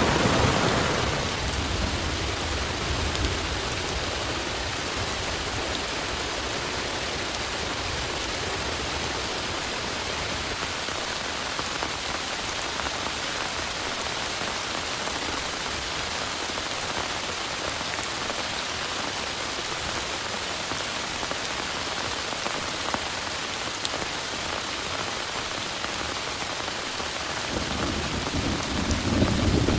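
Heavy rain pouring steadily. A low thunder rumble dies away in the first second, and another starts building near the end.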